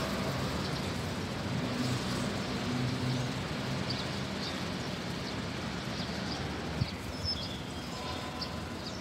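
Short, scattered high chirps of an oriental magpie-robin, heard more often in the second half, over a steady low hum of vehicles. A single sharp click about seven seconds in.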